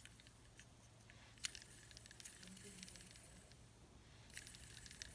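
Faint crinkling and small clicks of plastic candy packaging being handled and unwrapped, coming in a couple of short bursts with a sharper click about a second and a half in.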